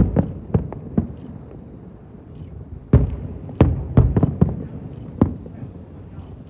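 Aerial fireworks shells bursting: about a dozen sharp bangs, each with a ringing tail, coming in quick clusters near the start and again from about three seconds in.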